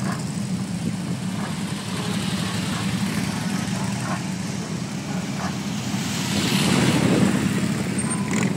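Several police motorcycles running at low speed in close formation, their engines a steady low drone. The sound swells as one passes close about six to seven seconds in.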